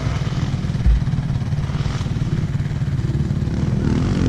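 Dirt bike engine running steadily, growing a little louder near the end, with one brief low thump about a second in.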